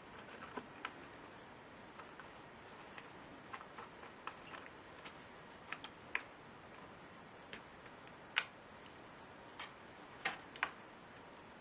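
Irregular small clicks and taps of laptop parts being handled during disassembly work, about a dozen sharp ticks spread unevenly, the loudest a little past the middle.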